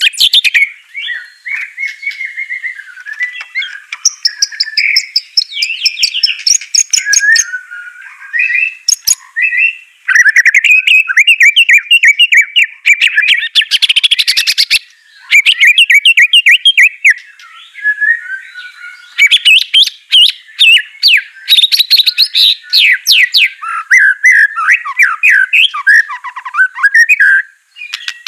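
White-rumped shama singing a loud, fast, varied song of whistled phrases, rapid trills and sharp clicks, in bursts with short breaks between them.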